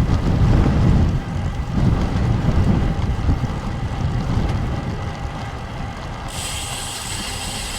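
Wind buffeting a helmet-mounted camera's microphone on a moving road bike, a heavy low rumble that eases a little as the ride goes on. About six seconds in, a high hiss joins it.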